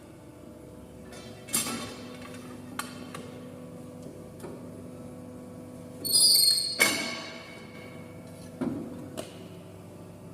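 Stierli Bieger 420 CNC horizontal hydraulic bending press running with a steady hum, punctuated by several sharp metallic knocks and a louder hissing, ringing burst about six seconds in.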